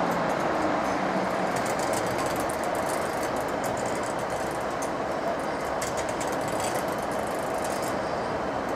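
A train running through a station: a steady rolling rumble with a run of rapid clicking in the middle that fades near the end.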